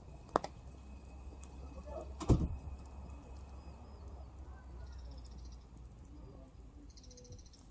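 Firewood burning in a campfire, popping sharply twice: a small crack about half a second in and a louder one a little past two seconds. Birds chirp faintly in the background.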